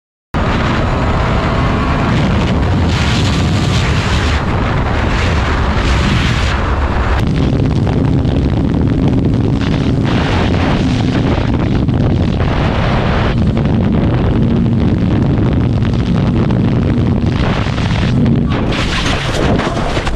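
Motorcycle riding footage: loud wind buffeting on the bike's camera microphone with the motorcycle engine running underneath, starting abruptly about a third of a second in.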